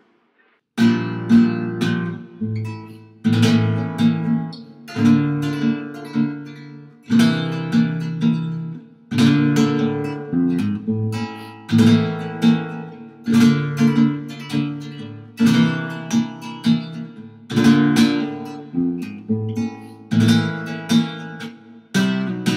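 Flamenco guitar strumming a repeating chord pattern in a steady rhythm, with sharp strummed attacks about once a second, starting after a brief silence.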